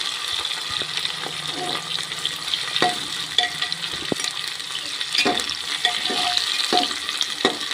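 Sliced onions sizzling in hot oil in a pressure cooker while a spatula stirs them, scraping and knocking against the pot several times.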